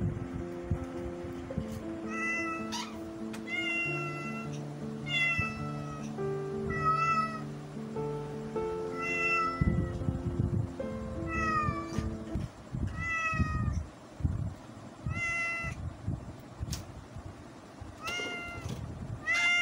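Cat meowing over and over: about a dozen short, high-pitched meows, some bending down in pitch at the end, with background music under the first part.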